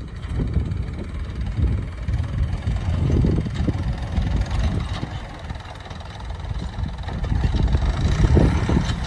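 Yanmar F535 compact tractor's diesel engine running while plowing, a low, uneven rumble. It eases off about six seconds in and builds again toward the end.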